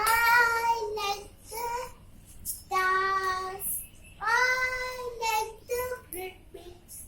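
A child's voice reciting a poem in a sing-song melody, in several phrases with long held vowels and short pauses between them.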